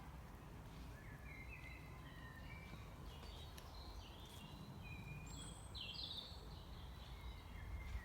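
Forest birds chirping and singing faintly, short high notes scattered throughout with one louder phrase about six seconds in, over a steady low rumble of background noise.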